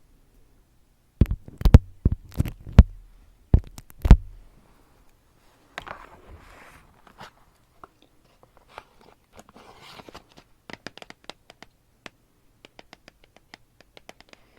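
Close-miked ASMR handling sounds: about eight sharp, loud taps on a hard object between one and four seconds in, then quieter scratching and many light clicks.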